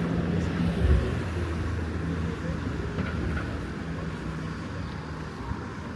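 Town street ambience dominated by the low hum of a motor vehicle's engine, with road noise and a few faint clicks.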